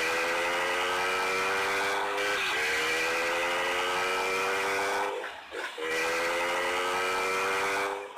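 Small motorcycle engine running hard under acceleration, its pitch rising slowly. It dips briefly at about two and a half seconds, as at a gear change, and breaks off for a moment a little after five seconds.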